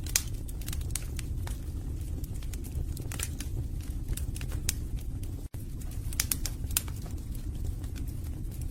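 Wood fire burning in a fireplace: a steady low rumble of flames with scattered sharp crackles and pops from the logs. The sound drops out for an instant about halfway through.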